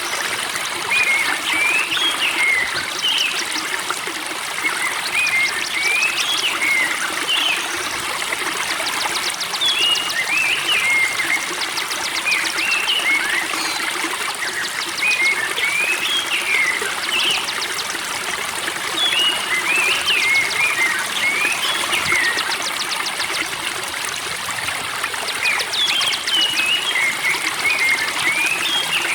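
Spring water trickling and babbling steadily, with a small songbird singing short, chirping phrases and quick trills over it every few seconds.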